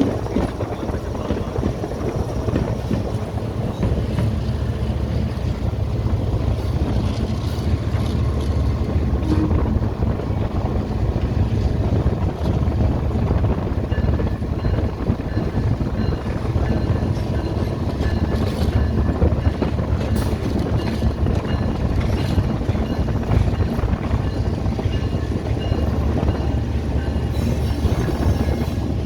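Tezgam Express passenger train rolling into the station: a steady, loud low rumble of the train running, with faint high tones joining about halfway through.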